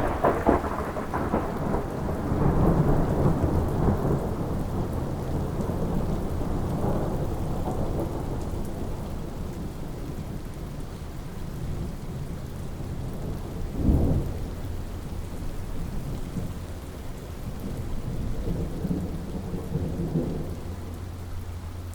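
Thunderstorm: steady rain with thunder rolling off from a loud crack at the start, a second sharp clap about fourteen seconds in, and a softer rumble near the end.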